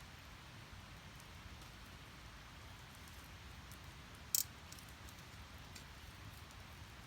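Split firewood burning in a Snow Peak Takibi-dai S fire pit: a steady low rush of flame with scattered faint crackles, and one sharp loud pop a little over four seconds in.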